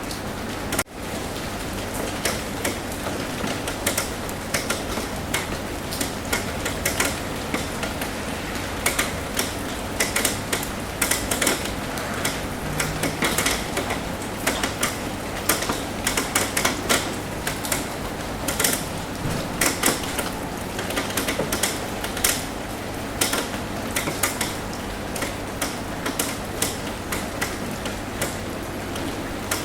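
Rain tapping on a roof: irregular sharp drips and taps over a steady patter, with a low steady hum underneath. The sound drops out for an instant about a second in.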